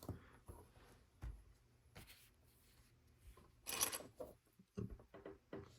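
Faint clicks and light rubbing of plastic LEGO pieces being handled and pressed onto the build, with a louder brief scrape about four seconds in.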